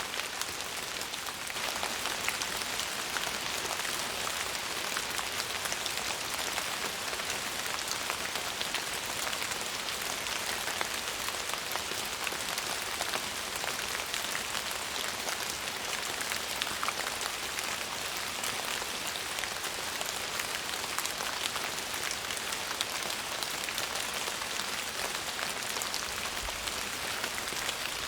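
Steady rain falling: an even hiss dense with the ticks of individual drops.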